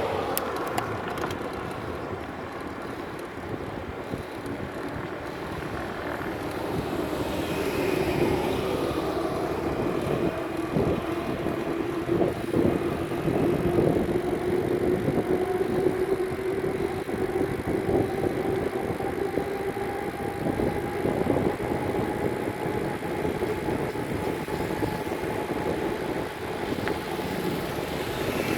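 Outdoor traffic and wind noise heard while cycling, with a motor engine drone holding a steady pitch from about a third of the way in and a higher drone joining it past the middle.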